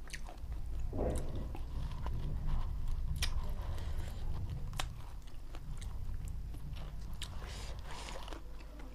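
A person chewing and biting spicy chicken eaten by hand, with many short, sharp mouth clicks scattered throughout.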